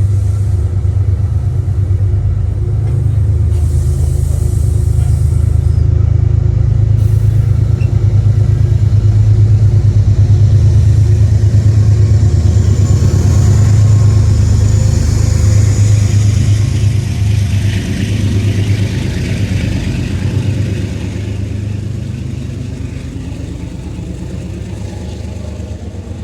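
Metro-North locomotive 203 and its passenger train going by, a loud steady low rumble of the diesel engine that builds to its loudest about halfway through and then fades away.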